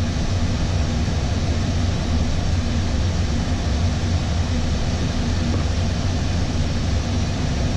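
Steady in-flight noise on an Airbus A320 flight deck: a constant rush of air with a low, even hum underneath.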